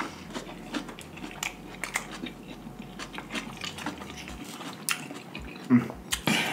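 Chewing and eating sounds from two people at a table, many small mouth clicks, with a few sharper clicks in the second half.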